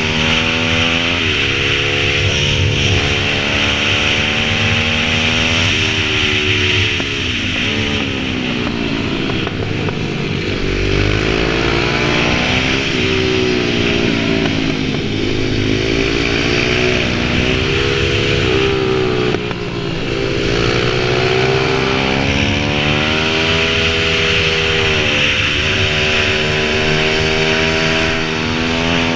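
Pit bike engine running under throttle, its pitch rising and falling again and again, with several sudden drops in pitch.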